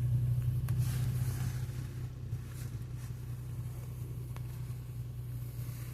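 Steady low hum of a vehicle engine idling, with a faint hiss and a couple of light clicks in the first two seconds; the hum eases slightly about two seconds in.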